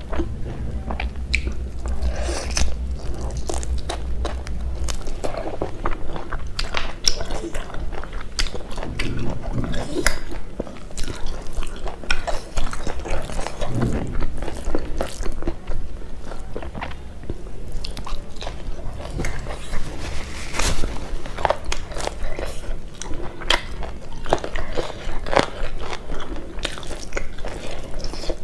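Close-miked eating: chewing and biting with many irregular wet mouth smacks and clicks as a person eats meat curry and rice by hand.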